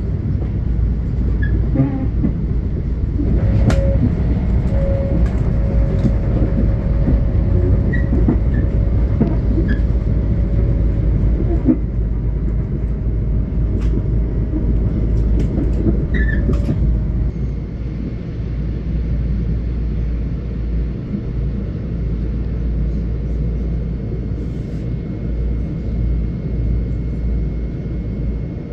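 Long Island Rail Road train running past: a heavy steady rumble with scattered clicks from the rails, and a steady whine that holds from a few seconds in until about halfway, then drops away.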